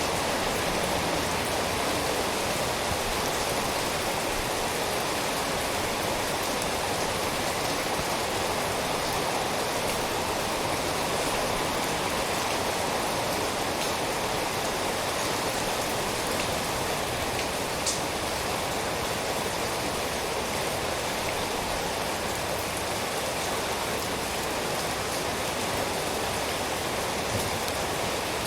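Steady rain falling, a dense even hiss of drops with an occasional single louder drop standing out.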